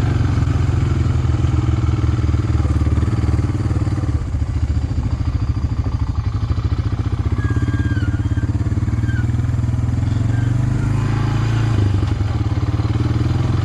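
Four-wheeler (ATV) engine running steadily, a continuous low drone heard from on board the machine.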